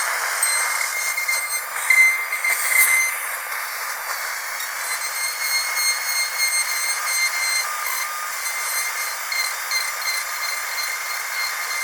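Dentist's drill whining steadily at a high pitch, with a louder, harsher flare about two to three seconds in.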